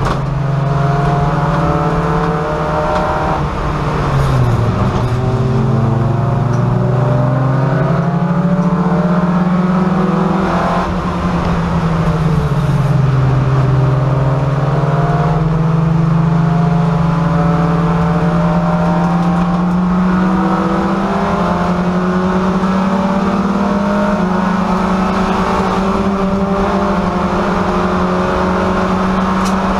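VW Golf race car's engine heard from inside the stripped cabin, running hard through a lap. Its note drops sharply about four seconds in and again around eleven seconds, then climbs slowly toward the end.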